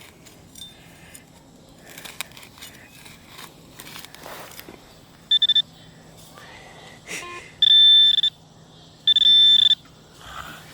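Garrett ACE 250 metal detector beeping three times, a short tone and then two longer, steady ones, as it signals a buried metal target. Before the beeps there are soft scrapes and clicks.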